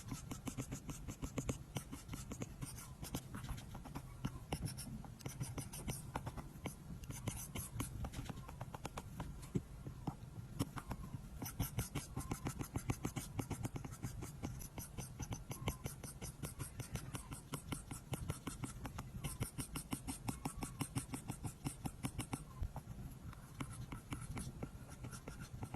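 Apple Pencil tip tapping and scratching across an iPad's glass screen in quick, dense strokes, with a constant hiss of the strokes.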